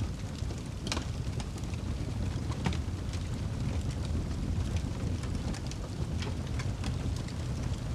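Fire burning in a fireplace: a steady low rumble of flames with frequent sharp crackles and pops, two of them louder within the first three seconds.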